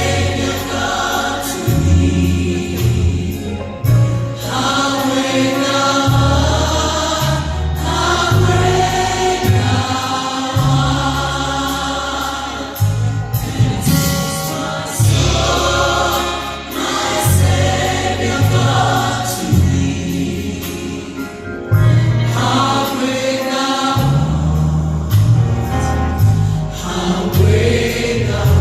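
Gospel choir singing over music with a pulsing bass line.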